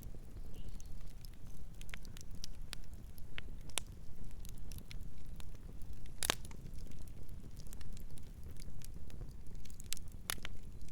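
Campfire crackling: scattered pops and snaps over a low, steady rumble of flame, with one sharp, loud pop about six seconds in and another near the end.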